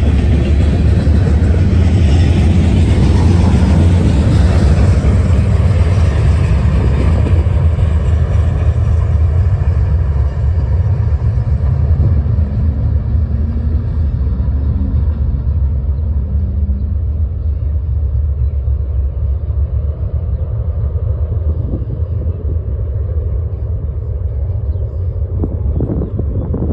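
Freight train of covered hoppers and tank cars rolling past; its wheel and car noise fades as the end of the train moves away. A steady low rumble remains after the train has gone.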